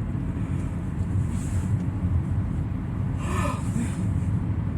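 Steady low rumble of a car's engine and tyres heard from inside the cabin while driving, with a brief higher sound about three seconds in.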